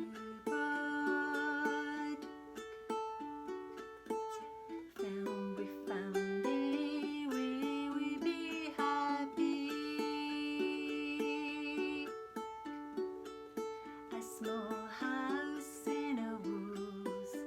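Ukulele playing the chords and melody of a gentle song, a steady run of plucked notes changing chord every second or so.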